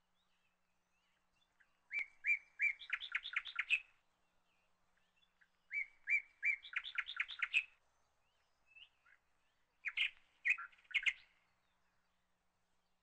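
A bird singing three short phrases a few seconds apart, each a few separate notes followed by a quick run of chirps.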